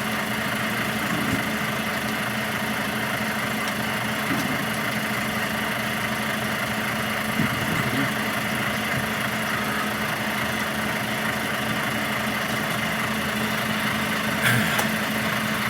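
HGV truck's diesel engine idling steadily with a constant low hum; a short burst of noise comes near the end.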